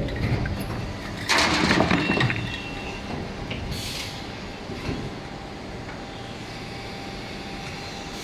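Injection moulding machine running a 16-cavity bottle-preform mould through its cycle. A loud rush of noise comes about a second in and lasts about a second, a short hiss of air follows near four seconds, then a single knock, over a steady running hum.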